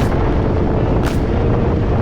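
Motorcycle riding along, its engine running steadily under heavy wind rushing over the microphone, with a faint high tick about once a second.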